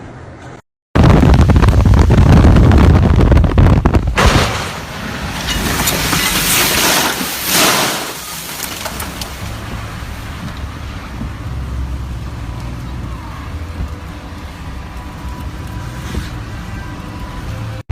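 Loud vehicle and road noise with wind on the microphone. A sharp hit comes about four seconds in, followed by a few seconds of loud hiss, then a steadier, quieter running noise.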